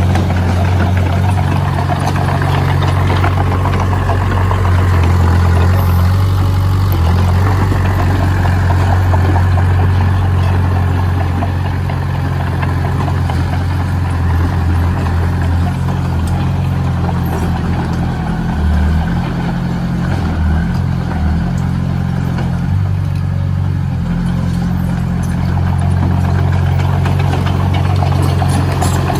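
Heavy construction machine's engine running steadily, a constant low drone that wavers slightly partway through.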